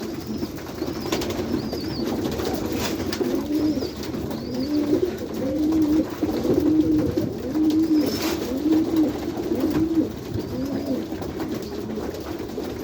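Domestic pigeons cooing in a loft: several birds giving repeated low, rolling coos that overlap, busiest and loudest through the middle, with a few faint high chirps above them.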